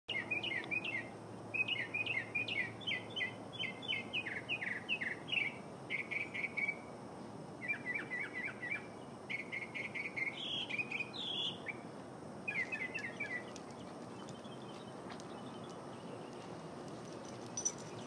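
A small songbird chirping in quick runs of short, sharp notes, phrase after phrase with brief pauses, falling quiet about 13 seconds in.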